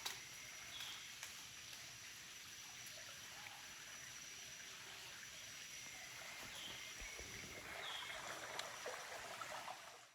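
Quiet outdoor night ambience: an even hiss like running water, a faint steady high tone, and three short high chirps, one near the start and two in the second half.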